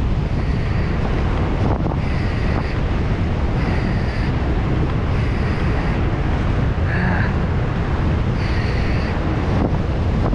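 Heavy wind buffeting on the microphone of a moving bicycle, a loud steady rumble. A fainter, higher sound comes back briefly about every second and a half.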